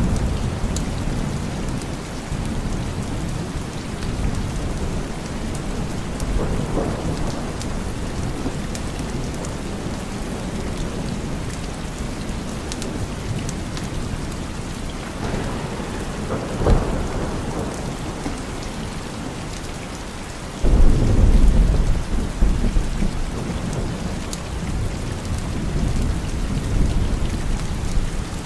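Steady rain with rolling thunder. A sharper thunderclap cracks about 17 seconds in, and a loud low boom breaks about 21 seconds in and rumbles away.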